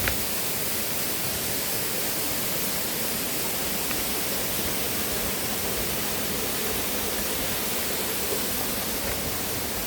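Steady rush of flowing river water, an even unbroken hiss, with a few faint clicks over it.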